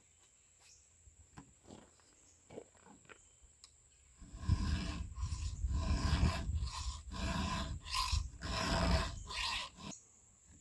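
File strokes on a chainsaw chain's cutter teeth: a few light clicks, then from about four seconds in a run of about eight rough rasping strokes, each under a second, as the damaged right-side cutters, worn from hitting the ground, are sharpened.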